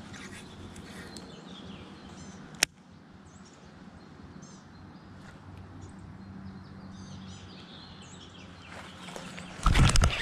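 Small birds chirping in short, scattered calls over quiet outdoor background. There is one sharp click about two and a half seconds in, and a loud rushing noise near the end.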